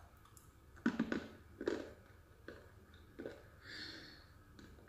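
Crunchy bites and chews of dry edible clay (mabele): about five short, sharp crunches in the first three and a half seconds, then a brief soft hiss.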